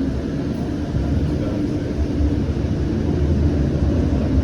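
Siemens S700 light rail car running, heard from on board: a steady low rumble with a faint motor whine that gets a little louder near the end.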